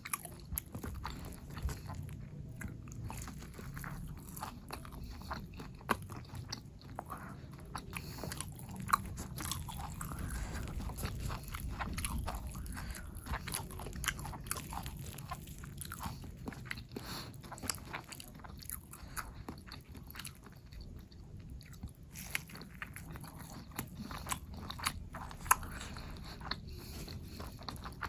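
Close-miked eating: a person biting and chewing crunchy food, with many short irregular crunches and clicks of the mouth and food.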